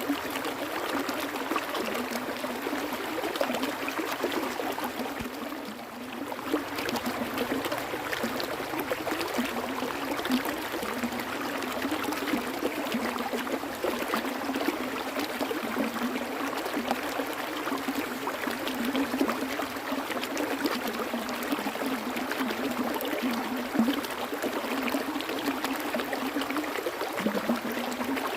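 Stream water flowing and trickling over rocks, with steady splashing and gurgling.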